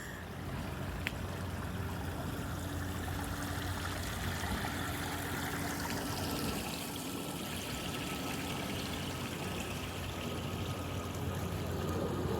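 Water flowing in a stream, a steady even rush with a faint low hum underneath.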